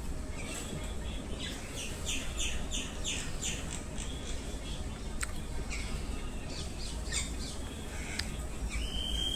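Birds calling: a quick run of repeated chirps, about two a second, in the first few seconds, then scattered sharp calls and a short held whistled note near the end, over a steady low rumble.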